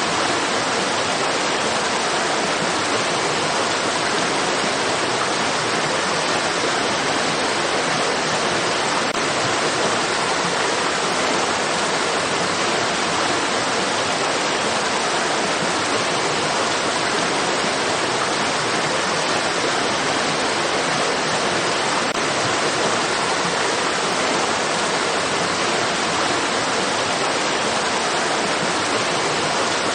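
Flowing stream water rushing steadily, an even, unbroken hiss that does not change.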